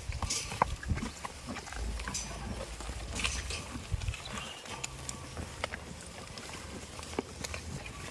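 Farm goats moving about, with scattered clicks and knocks like hooves and rustling, and no clear bleats.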